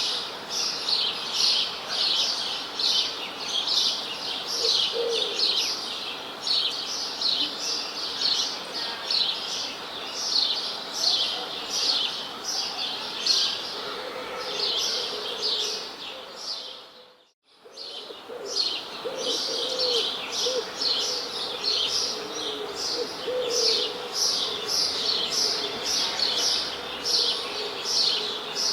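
A flock of small birds chirping rapidly and without pause, with a few lower calls among the chirps. About two-thirds of the way through, the chirping fades briefly to near silence and then comes back.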